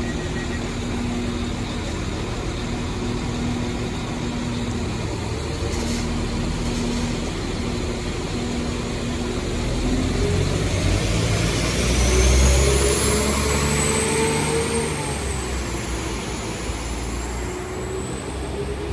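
Class 195 diesel multiple unit pulling out of the station. Its engines run with a steady low note that grows louder about ten seconds in, and a high whine rises and then holds.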